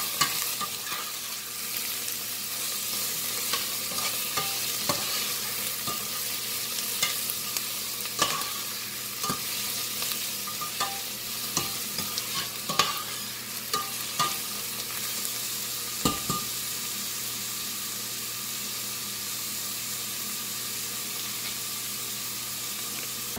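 Chopped onions and curry leaves sizzling in hot oil in a stainless steel pot, with a metal ladle scraping and clinking against the pot as they are stirred. The stirring stops about two-thirds of the way through and the steady sizzle goes on alone.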